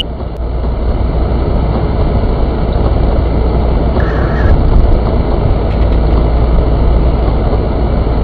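Steady engine and road noise inside a MINI's cabin while driving, with a short faint beep about four seconds in.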